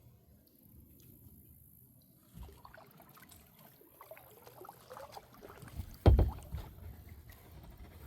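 Quiet paddling in a kayak, with faint small splashes and knocks. A single loud thump about six seconds in.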